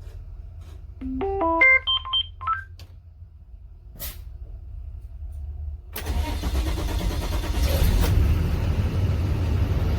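A quick rising run of electronic beeps, a click, then the 2020 Blue Bird school bus's engine starting about six seconds in and running with a loud rumble.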